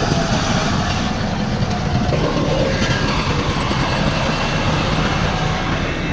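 Heavy diesel earthmoving machinery running steadily under load, a continuous deep engine rumble.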